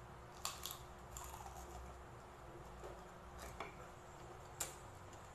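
Quiet eating by hand: soft chewing of crispy fried pork belly, with a few faint, scattered clicks and crunches.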